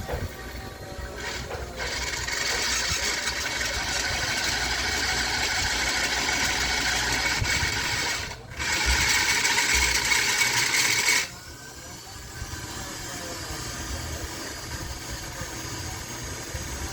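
Philips Walita food processor's electric motor and gears running at speed on a test run after the gears were freshly greased, a steady whining hum. It starts about two seconds in, breaks off briefly near eight and a half seconds, runs again, and drops to a quieter level about eleven seconds in.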